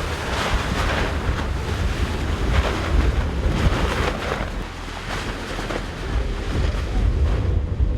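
Wind buffeting the microphone: a heavy, uneven low rumble over a steady rushing noise like surf, swelling and easing irregularly.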